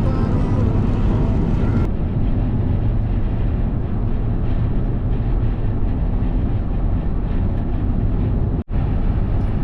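Steady road and engine noise of a truck driving at speed, heard from inside the cab: a low, even rumble that cuts out for an instant near the end.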